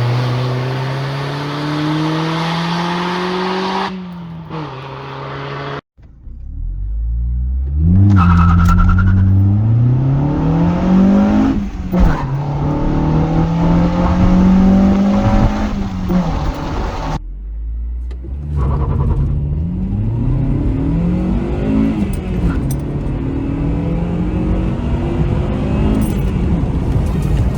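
Honda Civic SiR (EP3) engine, its muffler removed, accelerating hard: the pitch climbs, drops back at each gear change and climbs again. The sound cuts off abruptly and restarts a few times.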